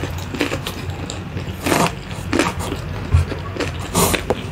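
Close-miked eating sounds: chewing a mouthful of spicy instant fried noodles, with irregular wet mouth clicks and smacks. The plastic chopsticks pick through the noodles on a wooden board, and there are a few louder smacks about two seconds in and near the end.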